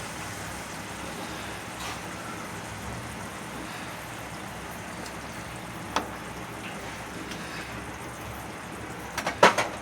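Chicken kofta simmering in thinned masala gravy in a kadai on low heat: a steady sizzling bubble. There is one sharp knock about six seconds in. Near the end comes a quick cluster of clicks and knocks, the loudest sound.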